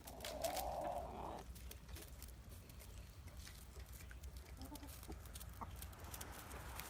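A hen giving one rough call about a second and a half long at the start, followed by faint scattered ticks.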